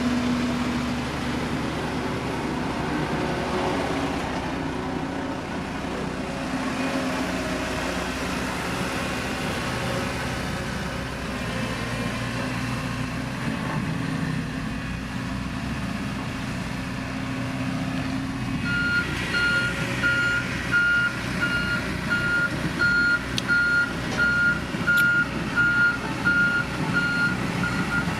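Diesel engine of a heavy road-building machine running steadily; about two-thirds of the way in a reversing alarm starts, giving evenly spaced beeps as the machine backs up.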